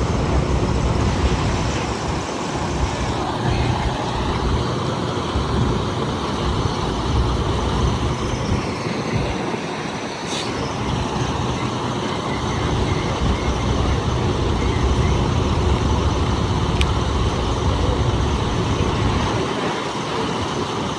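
Steady road and vehicle noise: an even hiss over a low, uneven rumble, with no single event standing out.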